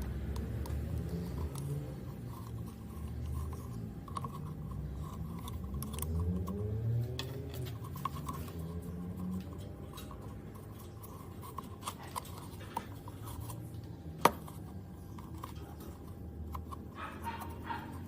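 Light scraping and rubbing handling sounds with scattered small clicks and one sharper click about fourteen seconds in.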